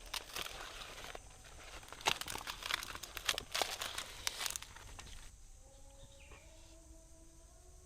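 Crinkling and rustling with many sharp little clicks, as of something being handled, for about four and a half seconds, then faint held tones that bend slightly in pitch.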